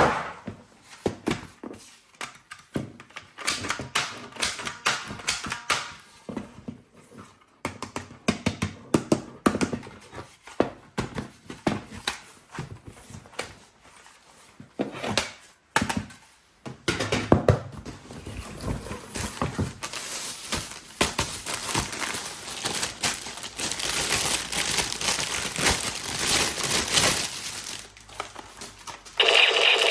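Packaging being handled: paper or plastic crinkling and rustling, with scattered clicks and knocks. The rustling becomes denser and steadier in the second half.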